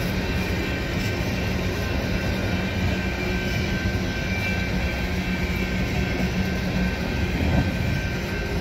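Coal hopper cars rolling past on the rails with a steady, dense rumble, with several steady whining tones above it.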